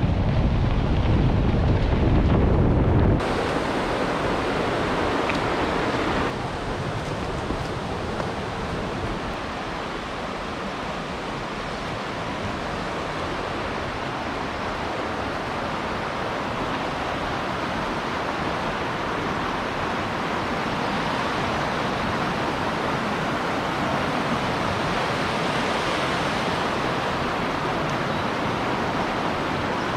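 Steady rushing noise, heavy and rumbling for the first three seconds, then a brighter, even hiss, with abrupt changes about three and six seconds in.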